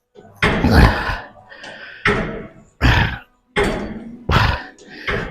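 A set of plate-loaded leg presses being worked: a run of heavy thuds with hard breaths, about one every three-quarters of a second.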